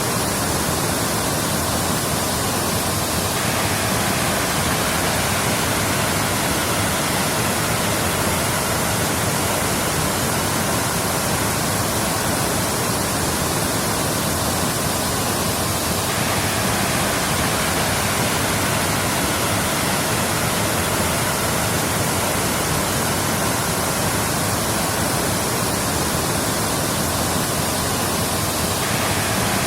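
Waterfall: water falling and rushing in a steady, even wash of noise that holds at one level throughout.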